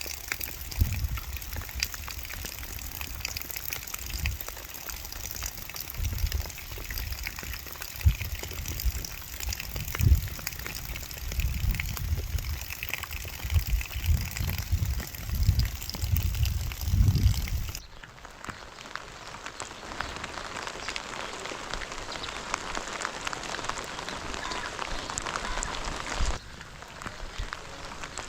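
Heavy rain falling with a steady hiss, with irregular low rumbles under it for the first two-thirds. About two-thirds of the way through the sound changes abruptly to a lighter, even rain hiss without the rumbles.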